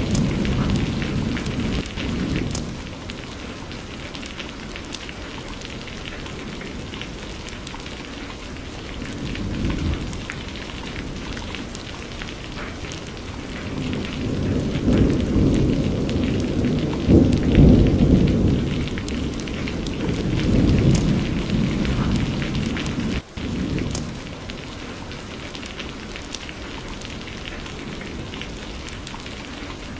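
Steady rain with rolling thunder: low rumbles swell near the start, about a third of the way in, and longest from about halfway to three quarters through. The sound drops out for an instant about three quarters through.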